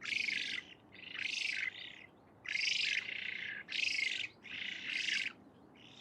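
Spoonbill calling: a series of harsh, hoarse calls, each about half a second long, about one a second.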